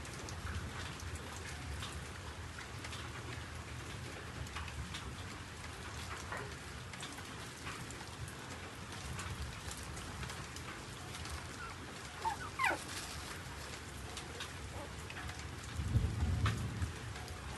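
Steady patter of rain, full of small ticks of drops. About twelve seconds in comes a brief rising high squeal, and near the end a low rumble.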